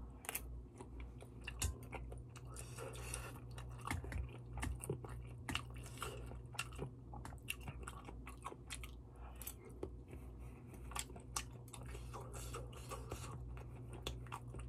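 Close-up chewing of malatang: a steady run of small, irregular mouth clicks and bites, with a steady low hum underneath.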